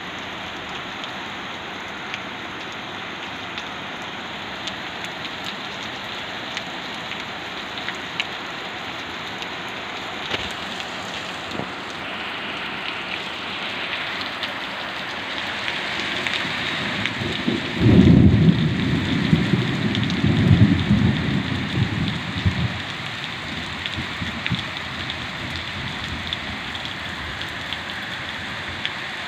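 Steady rain from a cyclonic storm, with scattered drop ticks. About eighteen seconds in, a sudden loud clap of thunder rolls for about five seconds, then the rain continues alone.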